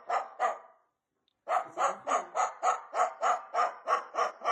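Rapid series of short, sharp barks at about three a second: two near the start, a brief pause, then an unbroken run of about a dozen.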